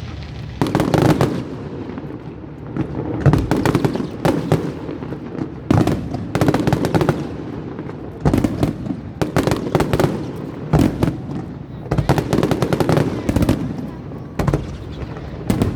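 Aerial fireworks going off in repeated volleys every second or two, sharp bangs mixed with rapid crackling runs.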